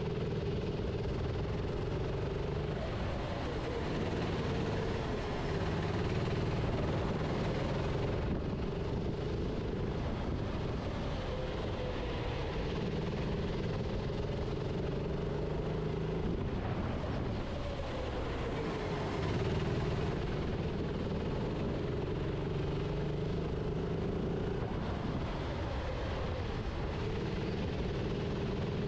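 Onboard sound of a racing kart's engine under way, its pitch rising along the straights and dropping briefly into corners about every four to five seconds, over a steady rush of wind and tyre noise.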